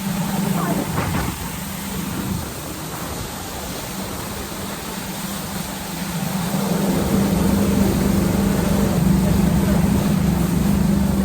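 Jet ski engine running with a steady hum, growing louder about six and a half seconds in.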